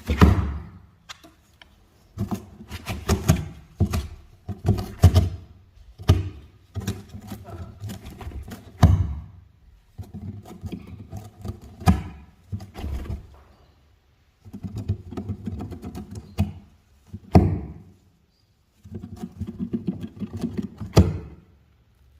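Pet rabbit gnawing on its own house, a run of sharp crunching bites in bursts, with short pauses about two-thirds of the way through and again near the end.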